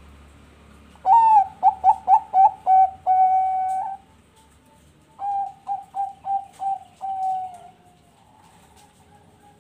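Bangkok-line zebra dove (perkutut) singing. It gives two song phrases, each a quick run of short notes ending in one long held coo: the first begins about a second in, the second about halfway through.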